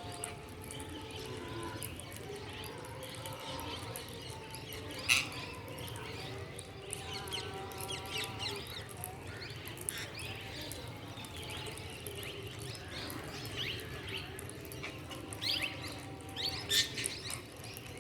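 Birds chirping and squawking in short, high calls, with one loud sharp call about five seconds in and a few louder calls near the end.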